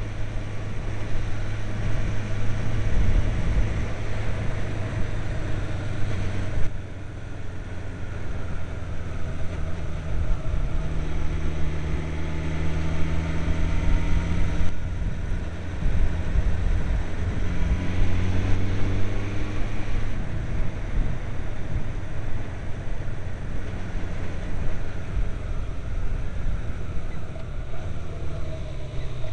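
Kawasaki Zephyr 550's air-cooled inline-four running on the move, with wind rushing over the microphone. The engine note drops off suddenly about seven seconds in, then climbs twice as the bike picks up speed again, and runs steady toward the end.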